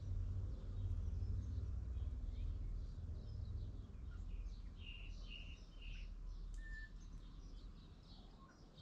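Birds chirping and calling, many short high notes in quick succession, over a low rumble that fades away after the first few seconds.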